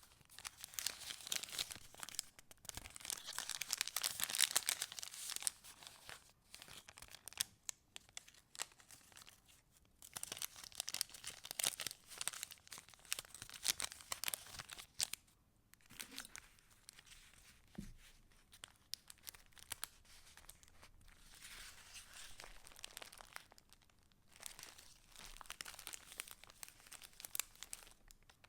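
Paper rustling and crinkling as the pages and paper pieces of a handmade junk journal are handled and turned, in several bursts of a few seconds with short pauses between them.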